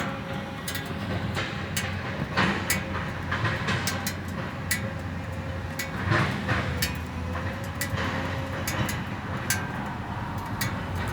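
Steady low mechanical hum with many sharp clicks and knocks scattered irregularly through it.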